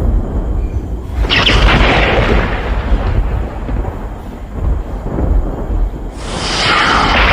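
Strong wind buffeting the microphone in pre-storm weather: a constant fluttering rumble, with a louder gust about a second in and another near the end.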